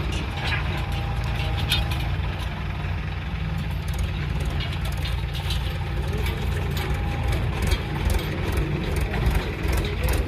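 Heavy diesel machinery of a JCB backhoe loader running steadily while digging and loading soil, with scattered short clicks and clanks over the engine.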